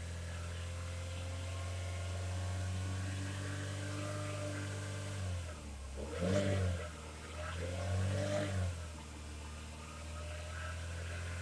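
A Holden Cruze's 1.8-litre four-cylinder petrol engine running at a steady fast idle, then revved briefly twice, a little past halfway through, with the pitch rising and falling each time.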